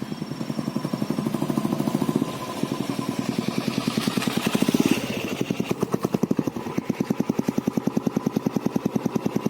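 Royal Enfield Classic 350's single-cylinder engine running through a Globe Wild Boar aftermarket silencer: a rapid, even exhaust thump. It builds up to its loudest about four to five seconds in, dips, then settles into a steady beat.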